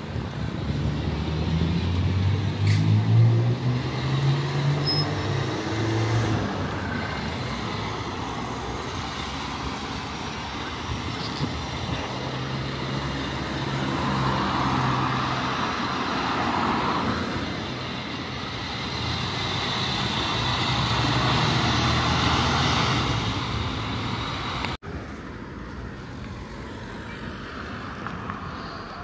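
Street traffic at a bus and trolleybus stop: vehicles passing and pulling away, their low motor hum swelling and fading several times, with a faint high whine rising and falling near the end. The sound cuts abruptly to quieter traffic about 25 seconds in.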